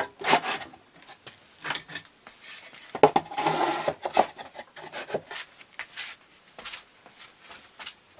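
Workshop handling sounds: irregular knocks and clatter of wood and hardware being handled, with a short scraping rub about three seconds in.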